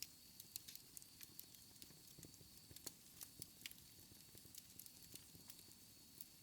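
Wood fire in a fireplace crackling faintly: irregular sharp snaps and pops, several a second, over a soft low rumble of the flames.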